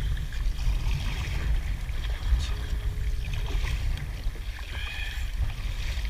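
Kayak paddle strokes splashing and dripping in the sea, over a steady low rumble.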